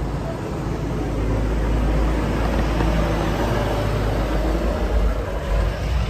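Street traffic: a car passing, its engine and tyre noise swelling and then easing off over a steady low rumble.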